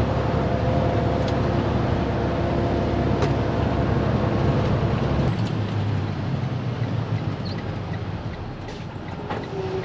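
Diesel truck engine and road noise heard from inside the cab while driving. About five seconds in the low engine note changes and the sound then gradually eases off.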